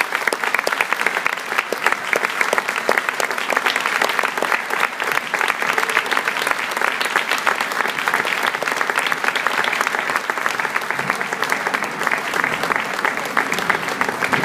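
Audience applauding steadily after a school band piece ends.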